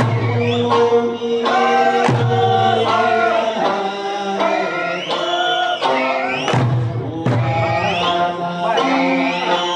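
Okinawan Eisa music: a folk singer's voice rising and falling over instrumental accompaniment, with a few sharp drum strikes.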